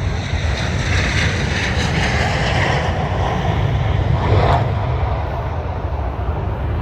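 Jet aircraft flying past: a loud, steady rushing jet noise with a deep rumble, swelling and easing as it passes.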